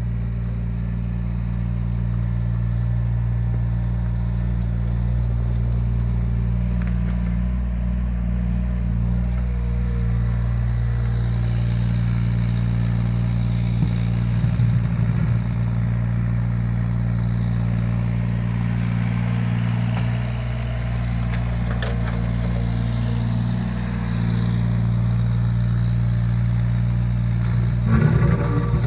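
Yanmar ViO17 mini excavator's three-cylinder diesel engine running steadily, with brief clattering about halfway through and again near the end.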